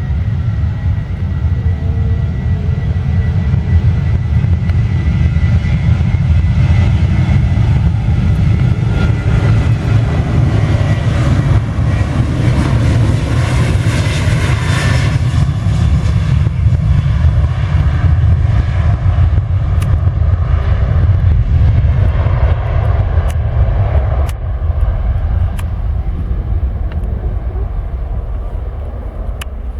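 An airliner's engines passing by: a steady low rumble with a high whine. It grows loudest about halfway through, then fades, with a few sharp clicks near the end.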